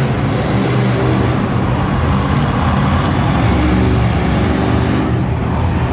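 Monster truck engine running loudly, its low pitch shifting up and down a little.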